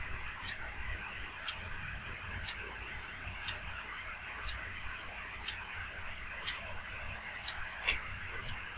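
Peanuts and split chickpeas roasting in a little oil in an aluminium pot, with a soft, steady sizzle as they are stirred with a metal spatula. Over it runs a faint, even ticking about once a second.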